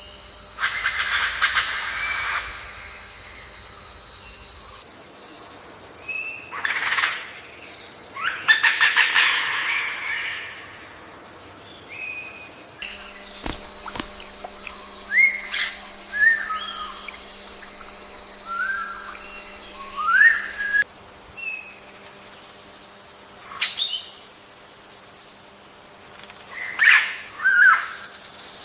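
Bird calls: a series of harsh, buzzy calls in the first ten seconds, then short rising whistled chirps, with more harsh calls near the end. The steady background changes abruptly several times, as separate recordings are spliced together.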